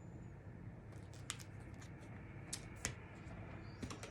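A few faint, sharp clicks, four or five spread across a few seconds, over a low steady hum.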